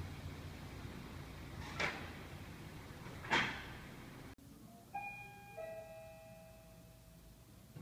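SUV engine running low as the car rolls down a garage ramp, with two short squeals. After a sudden cut, a two-note elevator chime rings and fades.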